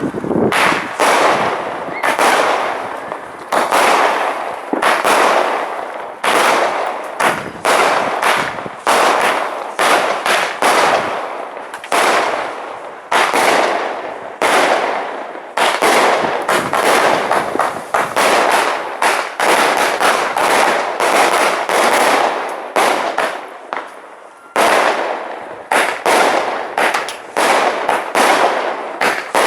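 A CT Pyro 'Whole Shabang' 75-shot firework cake firing a steady run of shots, each a sharp bang with a fading tail, about one to two a second, with a brief lull a little before the end.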